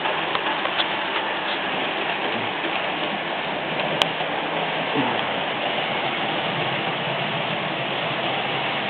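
Märklin model train running on the layout's track: a steady rushing rattle of wheels and motor, with one sharp click about four seconds in.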